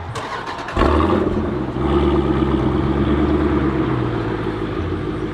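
Jeep Grand Cherokee SRT's 6.4-litre HEMI V8 sounding through a Corsa Xtreme cat-back exhaust. It jumps suddenly to a loud, deep, steady running note about a second in.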